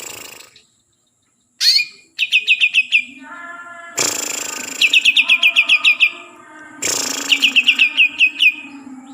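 Cucak ijo (green leafbird) singing: three quick runs of sharp, down-slurred whistled notes, each run lasting about a second. Short bursts of noise come between the runs, and there is a brief silent gap about a second in.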